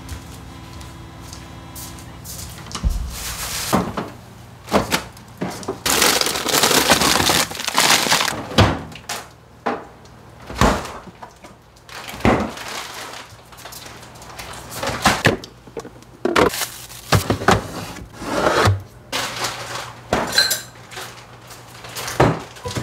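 Kitchen clatter: a string of separate knocks, clinks and bumps as dishes, containers and fridge doors are handled. About six seconds in there are a couple of seconds of denser rushing noise.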